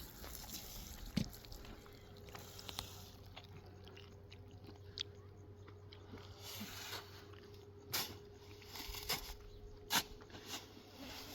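Scattered light clicks and knocks, with sharper ticks about a second in and around eight and ten seconds in, over a faint steady hum.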